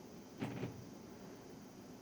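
Faint steady hiss of room tone and recording noise, with one brief soft noise about half a second in.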